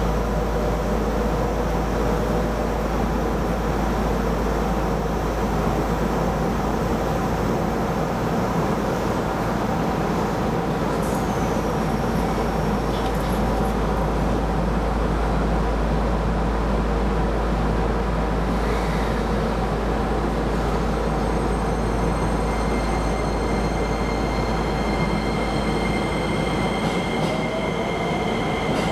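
Keisei Line electric train running, heard from inside the car: a steady rolling rumble. About two-thirds of the way through, high squealing tones join in and hold, and a slowly rising whine comes in near the end.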